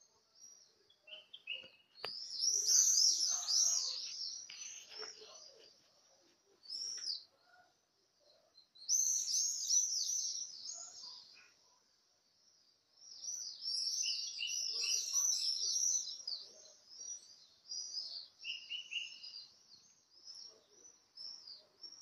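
Small birds chirping in high, rapid, overlapping calls that come in three louder waves, about two, nine and thirteen seconds in, with scattered chirps between them.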